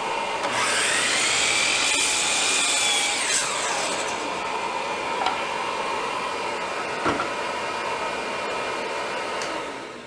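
A power tool cutting wood: a whine rises as the motor spins up, holds while it works through the wood, and falls away as it winds down. A steady machine hum runs underneath and fades near the end, with one knock in the middle.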